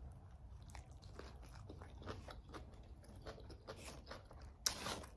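A person chewing a bite of Subway turkey sandwich, with soft, faint crunching and mouth sounds, and a louder crackle near the end.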